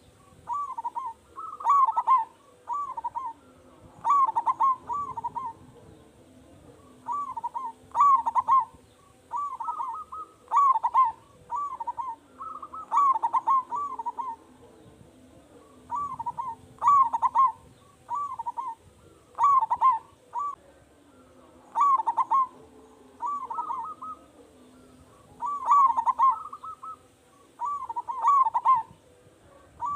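Local zebra dove (perkutut) with a big voice, singing its cooing song in short phrases of quick rolling coos that repeat every couple of seconds.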